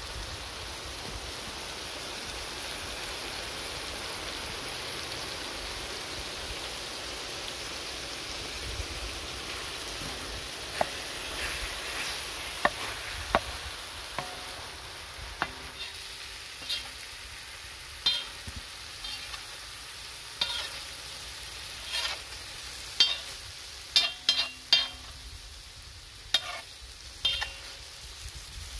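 Marinated chicken pieces sizzling on a large metal tawa griddle, with a metal spatula scraping and clacking against the tawa as the chicken is stirred. The clacks start about a third of the way in and come often in the second half.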